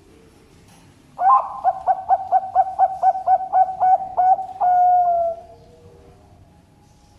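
Zebra dove (perkutut) cooing: a quick run of about a dozen short notes, roughly four a second, ending in one long held note that fades away.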